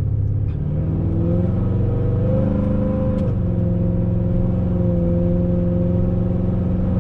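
Car engine accelerating, its pitch climbing for about two seconds, then dropping sharply about three seconds in as the freshly rebuilt automatic transmission shifts up; after that the engine runs steady. Heard from inside the car.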